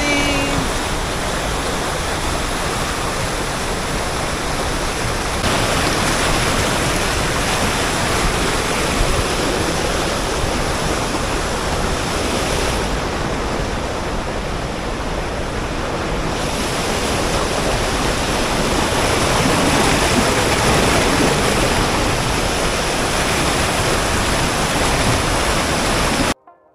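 La Fortuna Waterfall's falling water: a loud, steady rush that cuts off suddenly near the end.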